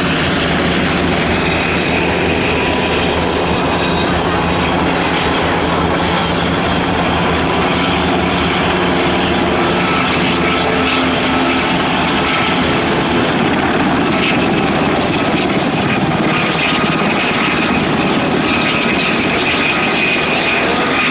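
UH-60 Black Hawk helicopters flying by, their rotors and twin turboshaft engines making a loud, steady noise that holds level throughout.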